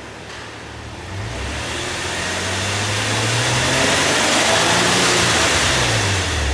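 Nissan Elgrand Rider S's engine and exhaust revved from idle: the revs climb from about a second in, hold high, then fall back to idle near the end.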